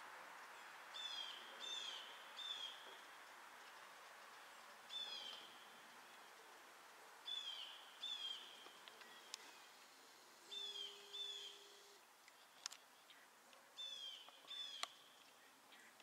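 Faint bird calls: short, downward-slurred whistled notes in twos and threes, repeated every few seconds over low background noise. A few sharp clicks come near the end.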